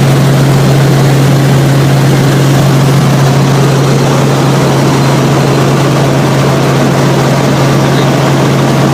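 Helicopter in flight, heard from aboard: a loud, steady drone of engine and rotors with a constant low hum running under it.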